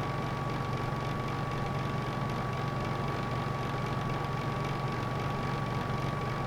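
Electric heater running: a steady hum with its fan's air noise and a faint high whine.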